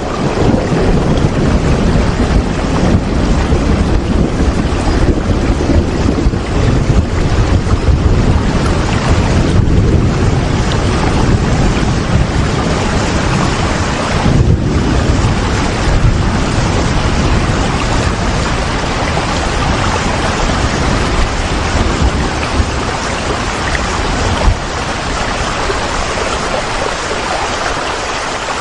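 Heavy rain with wind, a continuous hiss over a deep, fluctuating low rumble, easing slightly near the end.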